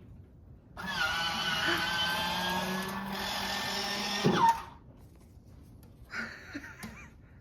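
A handheld power tool runs for about four seconds with a steady whine that creeps slightly up in pitch, then winds down sharply. A few faint knocks follow.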